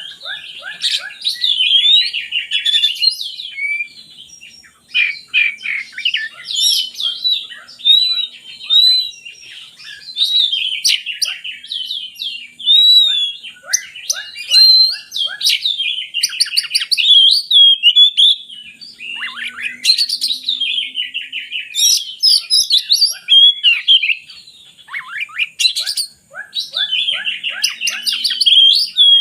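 Oriental magpie-robin (kacer) singing a long, fast, varied song of whistles, trills and chattering phrases, full of mimicked phrases, with only brief breaks.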